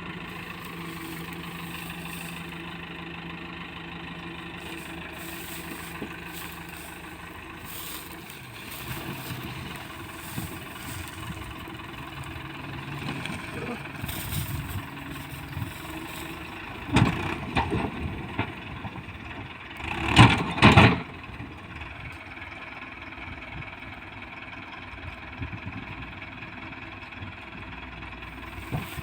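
Tractor engine running steadily, turning rougher about a third of the way in, with two loud bursts of noise past the middle.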